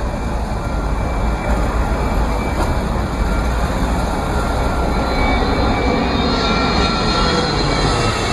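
Jet airliner engines running loud and steady, a deep rumble under dense noise with faint high whining tones.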